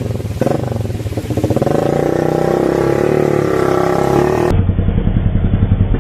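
Motorcycle engine revving hard under load, its pitch climbing for a few seconds, as the bike is gunned through floodwater. About two-thirds of the way in it switches abruptly to a lower, steadier engine run.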